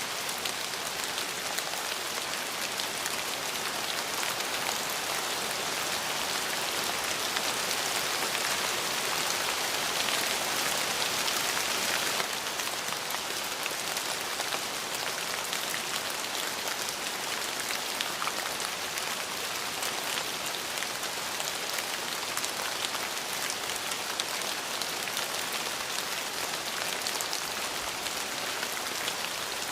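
Steady rain falling, a dense hiss with fine drop patter. It is a little heavier for the first twelve seconds or so, then eases suddenly.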